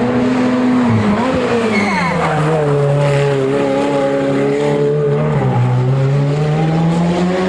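Hillclimb race car's engine: its pitch drops over a few seconds as the car slows, then climbs steadily as it accelerates away through the last two seconds.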